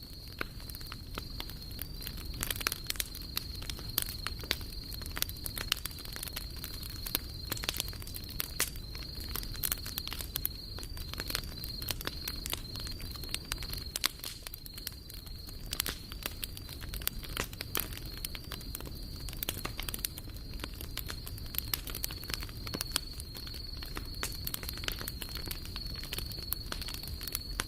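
Wood campfire crackling and popping with irregular sharp snaps over a low rumble, and a steady high-pitched trill running underneath.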